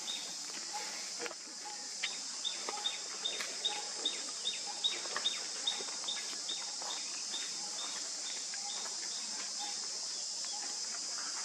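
Outdoor ambience: a steady, high-pitched insect drone, with a bird calling a long series of short, evenly spaced notes, about three a second, from about two seconds in.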